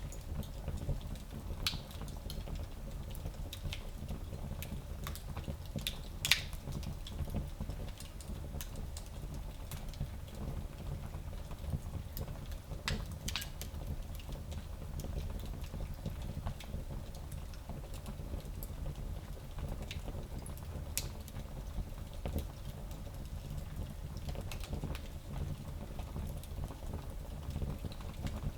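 Fire crackling in a small fireplace: scattered snaps and pops over a steady low rumble, with the loudest pop about six seconds in.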